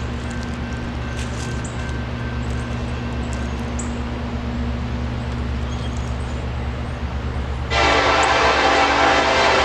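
Diesel locomotives of a BNSF coal train running with a steady low drone, then a loud multi-note locomotive horn blast starts suddenly near the end.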